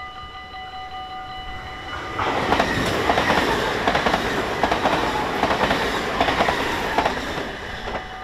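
Level-crossing warning bells ringing steadily. From about two seconds in, a double-deck passenger train passes at speed, its wheels clacking repeatedly over the rails and drowning the bells, before it fades out near the end and the bells ring on.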